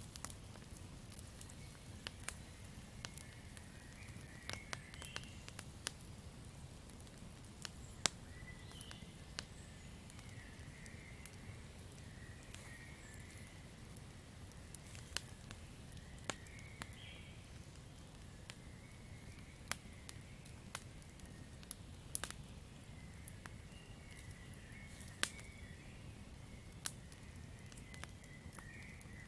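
Campfire crackling, with irregular sharp pops and snaps over the low, steady rumble of the burning wood. Intermittent faint chirping from night forest creatures runs underneath.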